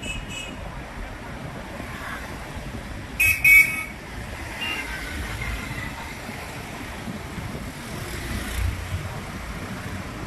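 Street traffic with steady road and wind rumble, and a vehicle horn giving two short toots about three seconds in, followed by a fainter horn a second later.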